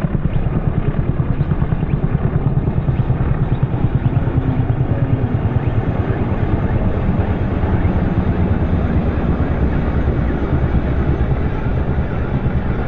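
Low-flying Merlin helicopter passing close, a loud, steady rumble with the rapid, even beat of its rotor blades.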